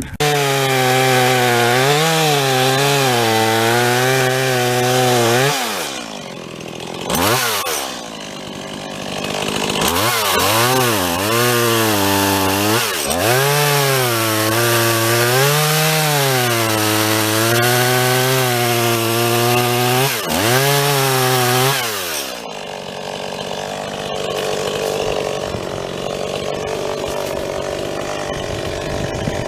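STIHL MS 170 two-stroke chainsaw running at high revs while cutting into a dead elm, its pitch dipping and recovering over and over as the chain bites and is eased. It drops off briefly twice, then from about 22 seconds in runs quieter and more evenly.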